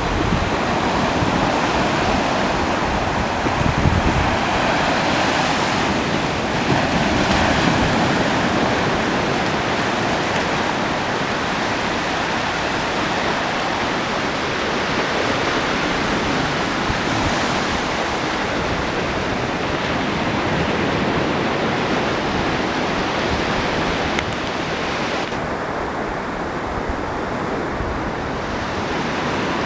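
Ocean waves washing onto a beach: a continuous surf hiss that swells and eases as waves break. Near the end the higher hiss drops away and the surf sounds duller.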